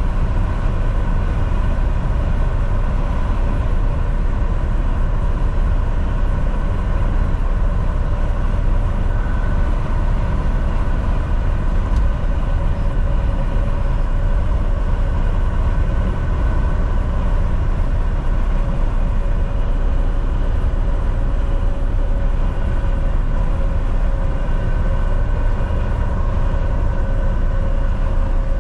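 Volvo VNL 760 semi truck cruising at highway speed: a steady drone of engine and tyre/road noise with a faint constant whine above it.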